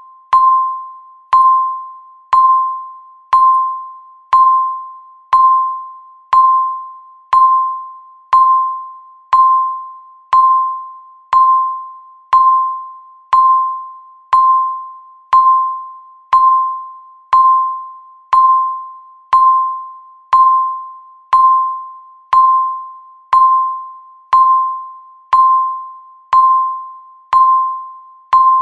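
Countdown timer's electronic ticking: a short, clear, bell-like tick once a second that rings and fades before the next, keeping an even beat.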